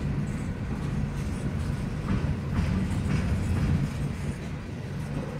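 Empty coal hopper cars of a freight train rolling slowly past: a steady low rumble with a few faint wheel clicks over the rail.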